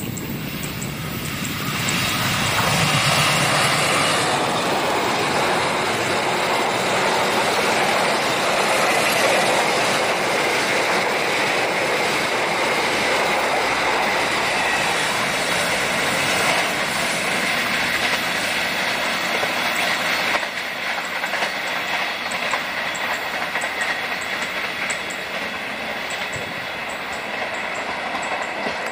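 Train passing close at speed, its wheels clattering over the rails with a steady high ring. The noise builds about two seconds in and eases slightly past the middle as the cars keep rolling by.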